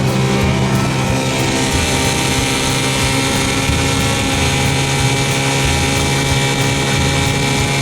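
1968 Evinrude 6 hp two-stroke outboard motor running steadily under way on a small boat, its pitch holding even. About a second and a half in, a rushing hiss grows louder over the engine.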